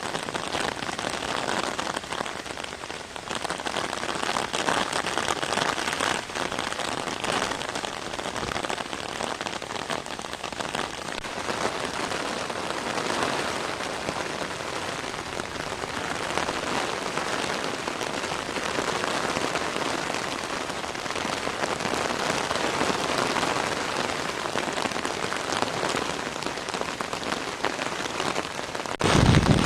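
Steady rain falling, a dense even hiss of drops on surfaces. Near the end it changes abruptly to a louder, deeper rushing sound.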